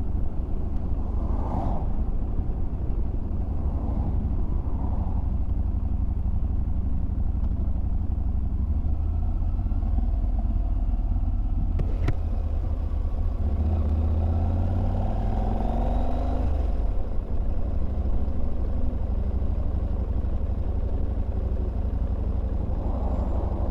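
Motorcycle engine running steadily while under way, a constant low rumble, with its pitch rising and falling briefly about two-thirds of the way through and a single sharp click midway.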